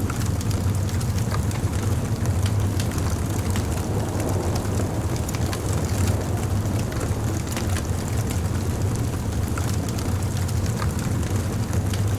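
Wood fire burning: a steady low rumble with many small, sharp crackles and pops scattered throughout.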